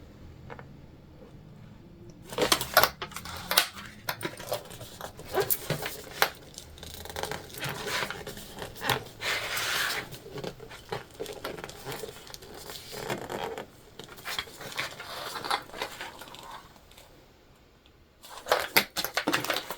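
Plastic sewing clips being clicked on and off and jelly vinyl being handled: an irregular scatter of small clicks and rustles, pausing briefly near the end.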